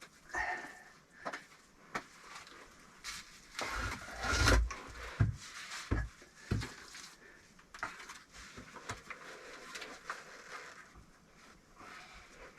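Bricklaying: scattered knocks of bricks being set and tapped down, with scraping of mortar, one longer scrape about four seconds in.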